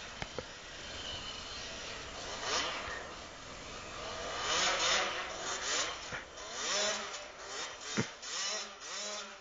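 Motocross bike engine revving up and down in waves, its buzzing pitch rising and falling, stronger in the second half.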